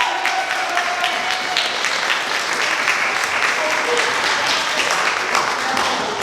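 Audience applauding in a hall, steady and dense, with a few voices mixed in.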